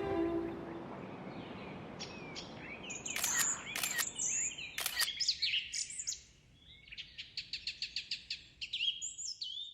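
Small birds chirping with quick sweeping high calls and a few sharp clicks among them, then a fast run of repeated chirps, about five a second, over the last few seconds.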